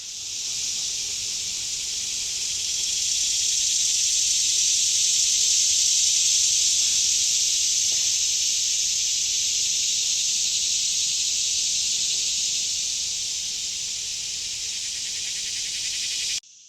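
A chorus of periodical cicadas: a steady, high, buzzing drone that swells over the first few seconds, eases a little, then cuts off abruptly near the end.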